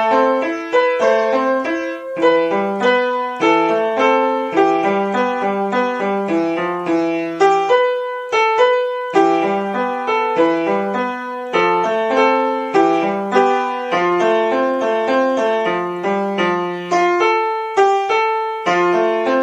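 Background piano music: a melody of struck notes, each fading after it sounds.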